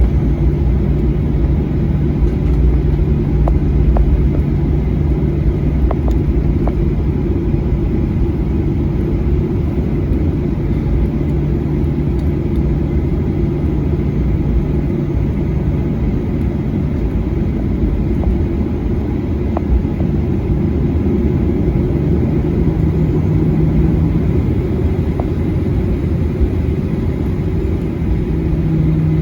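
Steady rumble of a Boeing 737-800 heard inside the cabin, with a low hum from the engines at low power, and a few faint clicks.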